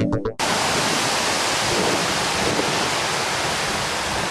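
Steady, loud rushing of storm wind and water from hurricane footage. It starts abruptly just under half a second in, as a brief pitched musical sound cuts off.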